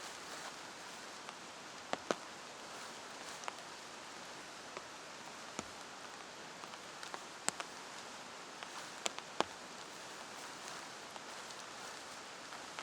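Steady rain hiss with scattered sharp drips, single large drops ticking onto a hard or taut surface every second or so.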